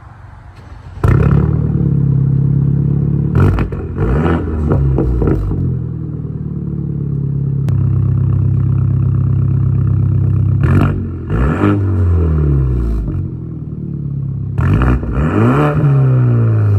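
BMW engine running through a straight-piped exhaust with the mufflers and resonator removed. It is revved several times, and each rev drops back down to a steady idle.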